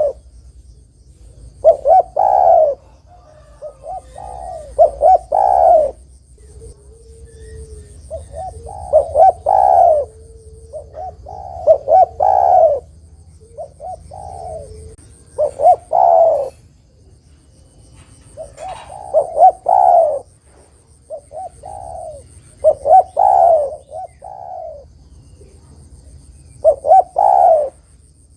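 Spotted dove (tekukur) cooing: repeated phrases of several short hoarse coos, with a new phrase every few seconds.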